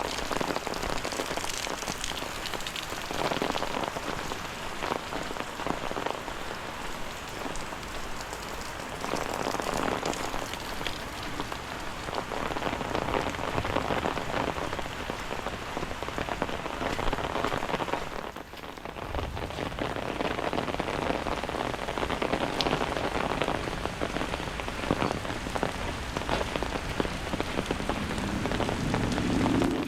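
Steady rain falling and pattering, easing briefly about eighteen seconds in.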